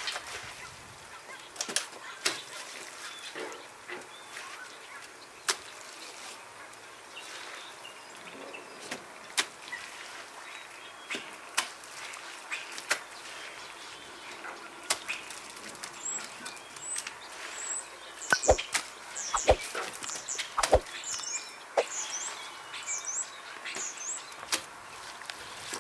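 A small bird chirping, a run of short high-pitched calls in the second half, over scattered sharp clicks and a few louder knocks.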